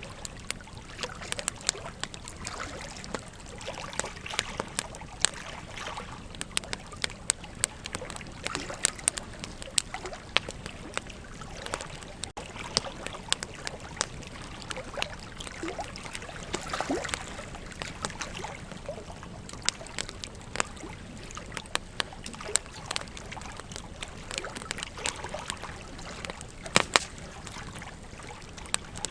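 Wood campfire crackling, with frequent irregular sharp pops and snaps over the steady rush of river water.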